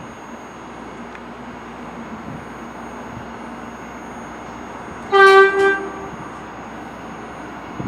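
New York City subway train horn sounding about five seconds in: a short, loud, high blast that dips and briefly sounds again, over a steady background hum.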